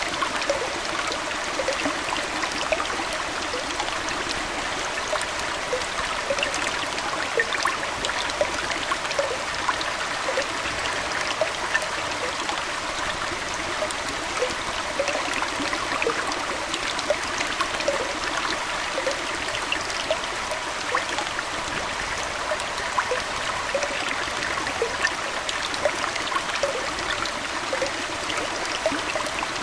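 Aquarium water flowing and trickling steadily, with many small bubbling plinks all the way through.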